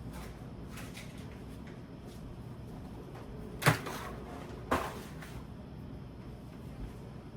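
Two sharp knocks about a second apart, the first louder, with a few faint clicks before them, over a steady low hum.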